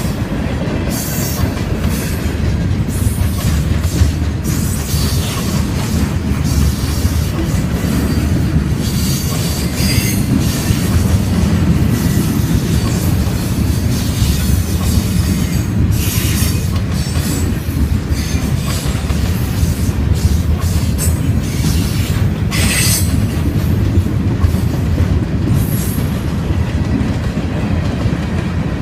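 Freight train of covered hopper cars and gondolas rolling past: a steady low rumble of steel wheels on rail, with brief high wheel squeals now and then.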